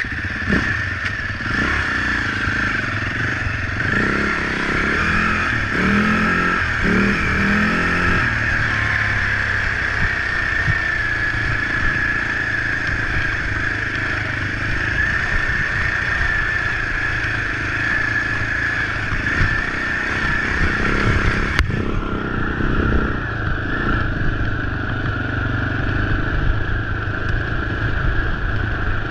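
Husaberg FE 450 dirt bike's single-cylinder four-stroke engine running steadily while being ridden, with an abrupt change in its sound about three-quarters of the way through.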